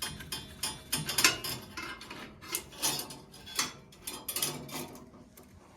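Irregular clinks and knocks of metal boiler parts being handled and set down during cleaning of a gas boiler, loudest about a second in and stopping shortly before the end.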